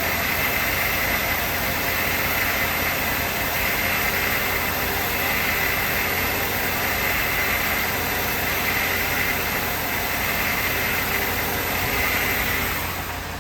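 Mercedes 560 SEC's 5.6-litre V8 idling steadily, its sound dropping away near the end.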